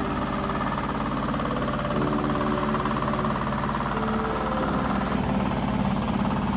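Diesel engine of heavy earthmoving machinery running steadily, its tone shifting slightly a couple of times as it works.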